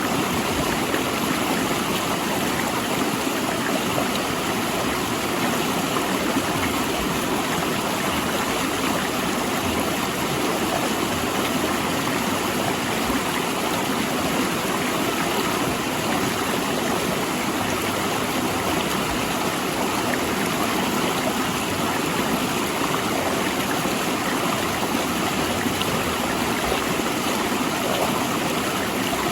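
Mountain river rushing between large rocks, a steady, loud flowing rush of water.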